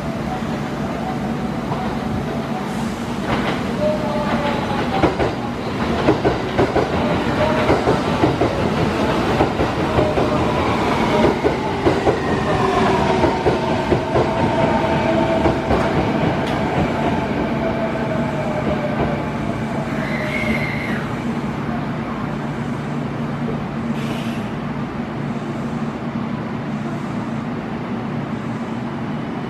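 Electric train sounds at a station platform: a steady low hum, with wheels clicking over rail joints and a motor whine rising and falling for several seconds in the middle. A short high tone sounds about twenty seconds in.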